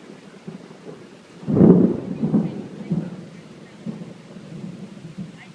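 A clap of thunder about a second and a half in, then rumbling in swells that fade over the next few seconds.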